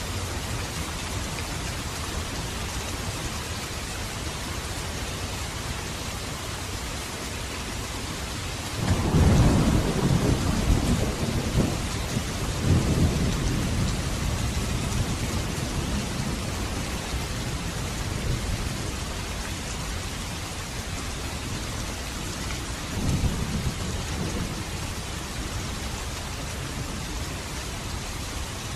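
Steady rain falling, with a roll of thunder about a third of the way in that rumbles on for several seconds, and a shorter, fainter rumble near the end.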